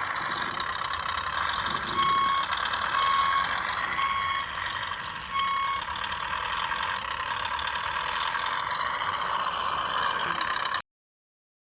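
Radio-controlled Scania 6x6 truck's electric drive whirring steadily, with a reversing beeper sounding four times about a second apart. The sound cuts off abruptly near the end.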